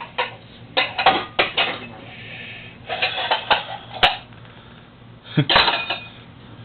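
Pots and pans clanking and clattering: a quick run of knocks about a second in, more around three to four seconds, and a longer clatter near the end.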